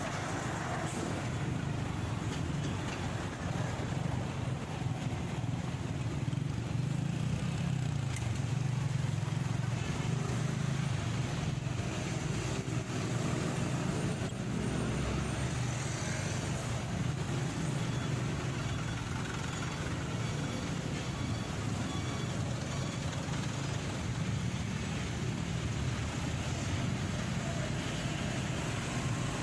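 Motorcycle engine running steadily on the move, with road and traffic noise around it.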